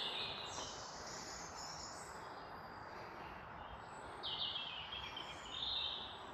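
Songbirds singing faintly: several short, high phrases, with a falling trill about four seconds in and another phrase near six seconds.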